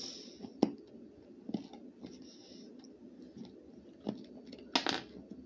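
Someone chewing a crunchy snack close to the microphone, with a few separate sharp crunches and the loudest one near the end.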